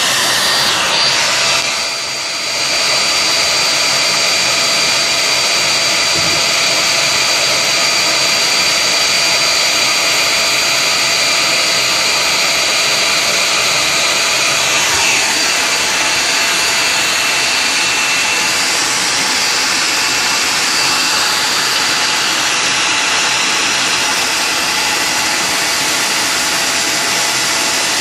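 Vacuum cleaner running steadily: a loud, even whoosh of air with a high motor whine over it, dipping briefly about two seconds in.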